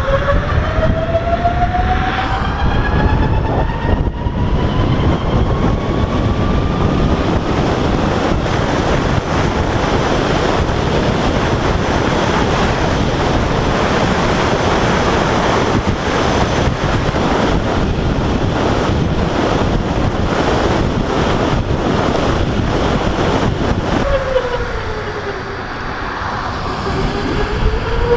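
Vectrix electric motorcycle's drive whine rising steadily in pitch as it accelerates, then buried under steady wind and road noise at speed. Near the end the whine drops in pitch as the bike slows, then climbs again.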